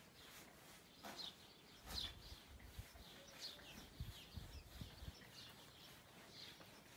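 Faint bird chirping: short, high, falling chirps repeating every half second or so, with a few soft low thumps.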